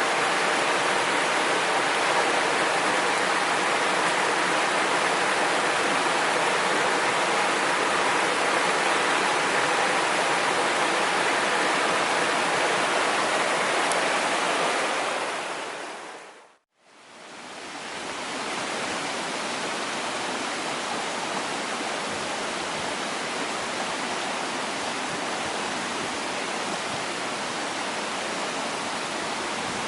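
Mountain stream rushing steadily over rocks. The sound fades out about halfway through and fades back in a little quieter.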